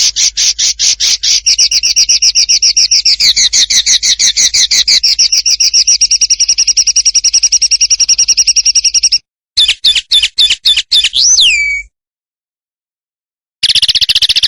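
A songbird singing a long, rapid run of sharp repeated chirping notes that cuts off abruptly about nine seconds in. A short burst of notes follows, ending in a looping whistle that drops in pitch. After a gap of dead silence, another fast run of notes starts near the end.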